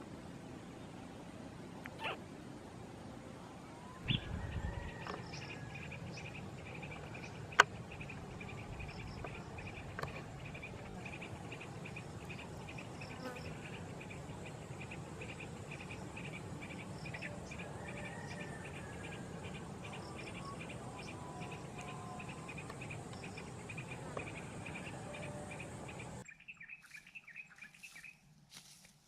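A cricket-like insect trill pulsing steadily over outdoor background noise, with a few scattered bird chirps. Several sharp clicks stand out, the loudest about a third of the way in, and the background noise drops away suddenly near the end.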